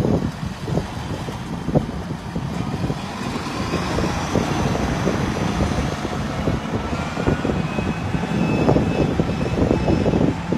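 1979 International Harvester 3588 2+2 tractor's six-cylinder turbo diesel engine running steadily.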